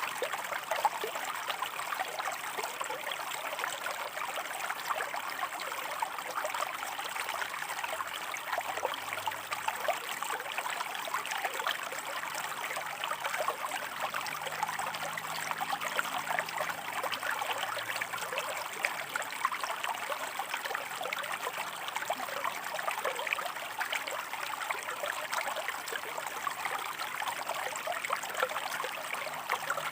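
Shallow stream running over rocks: a steady rush of water with many small trickling splashes.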